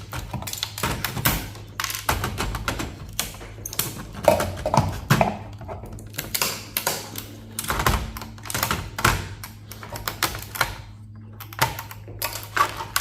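Quick irregular clicks, taps and clatter of hand tools and small parts being worked loose from a computer server, over a steady low hum.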